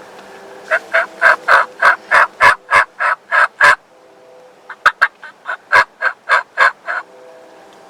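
Wild turkey yelping: two runs of loud, raspy, evenly spaced yelps, about three a second, with a short pause between them.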